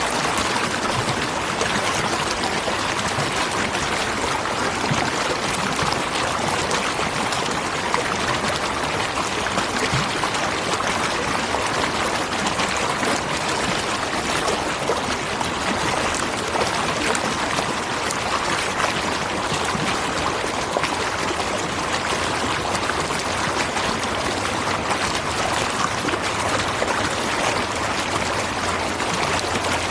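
Natural waterfall: water falling and splashing steadily, an even, unbroken hiss with no pauses or distinct events.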